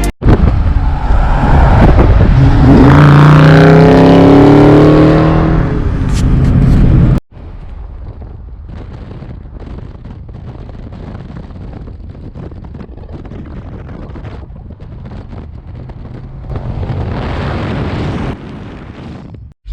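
2020 Dodge Charger Scat Pack's 6.4-litre HEMI V8 accelerating hard, very loud, its pitch climbing as it revs up. About seven seconds in it cuts abruptly to a quieter, steady engine and road noise, which swells briefly near the end.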